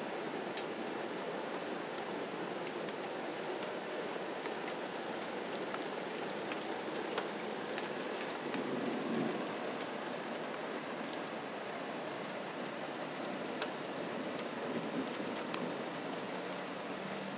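Steady rain falling, with occasional sharp ticks of drops striking close by and a brief low rumble about halfway through.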